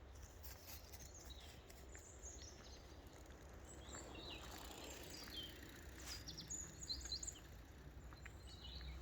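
Faint birds chirping and trilling in short, scattered high calls over a steady low rumble.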